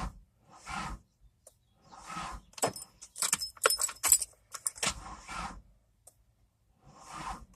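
Metal clinking and jingling in a quick run of sharp clicks, with softer rustling between: small metal objects being handled.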